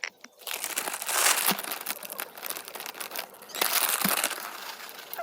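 Crinkling of a plastic granola bag as oats-and-honey granola is shaken out, in uneven rustling stretches.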